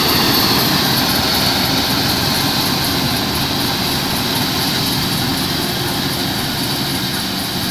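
Rice combine harvester running steadily, its engine and threshing machinery making a continuous mechanical drone that grows slightly quieter over the stretch.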